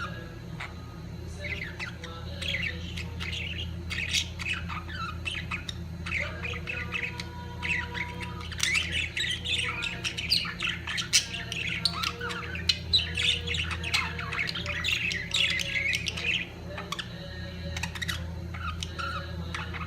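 Budgerigars chattering with frequent harsh squawks and chirps, several birds calling over one another, over a steady low hum.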